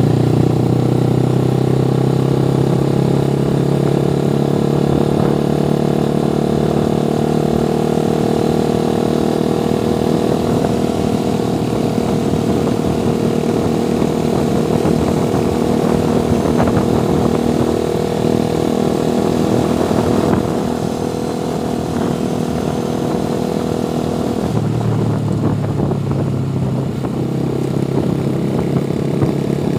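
Motorcycle engine running steadily while riding. The engine note drops and changes about two-thirds of the way through.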